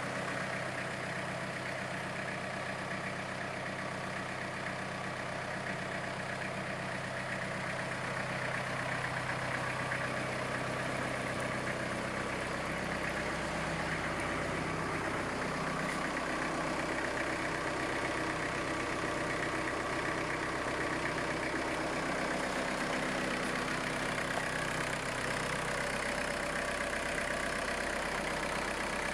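Iseki GEAS41s tractor's diesel engine running steadily at idle. About twelve seconds in its note shifts and grows slightly louder.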